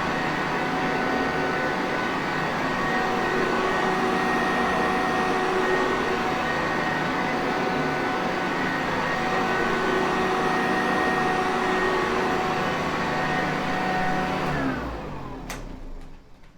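Sanitaire Perfect upright vacuum cleaner motor running steadily with a whine, then switched off near the end: the motor winds down in falling pitch and dies away, followed by a single click.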